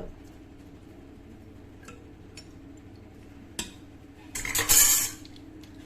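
A spoon stirring rice and water in a pressure cooker, with a few light clicks and a louder scraping rustle about four and a half seconds in.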